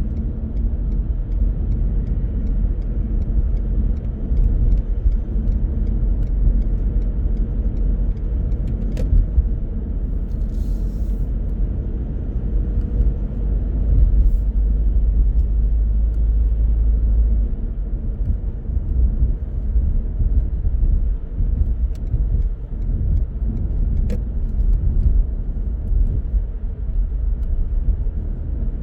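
Car driving on the road: a steady low rumble of tyres and engine, with a few faint clicks. The deepest part of the rumble eases slightly about two-thirds of the way through.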